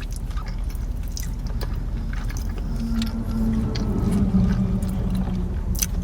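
Close-miked eating: soft, wet chewing of sauced animal style fries, with scattered smacks and clicks, over a steady low drone.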